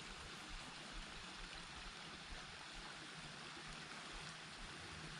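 Creek water running, a faint steady rushing with no distinct splashes.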